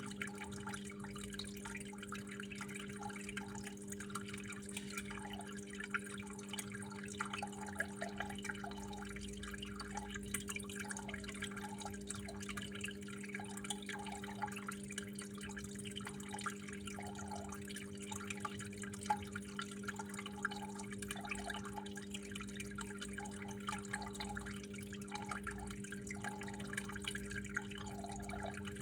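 Water running and dripping steadily, a continuous patter of small splashes, over a steady low hum.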